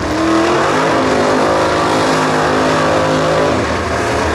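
A drag-racing muscle car's engine at full throttle down the strip, loud at high revs. It starts abruptly, climbs in pitch at first, holds steady, and drops once about three and a half seconds in.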